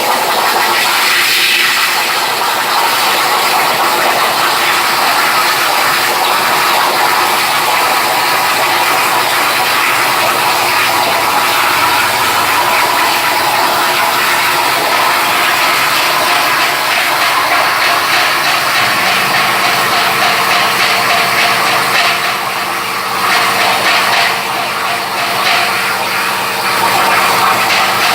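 CNC plasma cutter's arc hissing steadily as it cuts, with a low hum joining about two-thirds of the way in.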